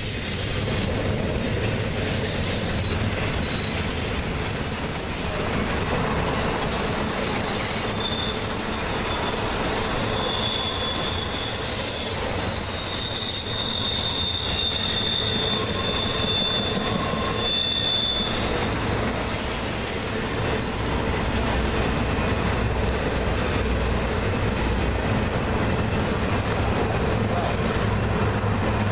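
Freight cars of an intermodal train rolling past with a steady rumble, wheels squealing in a high tone now and then, most clearly in the middle stretch.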